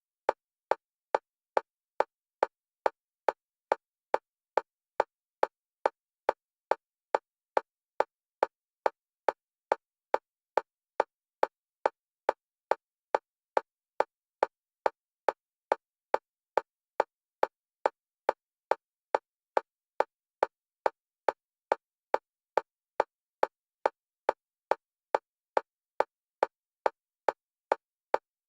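Electronic metronome clicks at a single pitch, evenly spaced at about three a second. The clicks alternate between the left and right stereo channels, as a bilateral stimulation track for EMDR.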